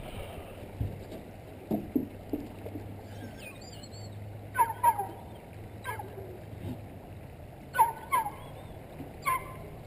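Bird calls: short, falling calls, mostly in quick pairs, repeated several times, with a fainter high wavering chirp a few seconds in.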